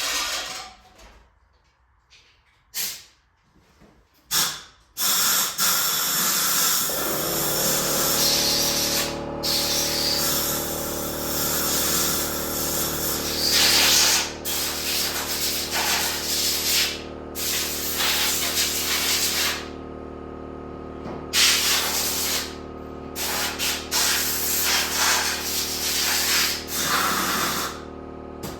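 Compressed-air blow gun hissing in repeated blasts as debris and surface rust are blown out of a Clinton 410 small engine. A few short puffs come first, then long blasts with brief pauses. A steady machine hum with a drone of several tones, typical of an air compressor motor running, starts about six seconds in and runs underneath.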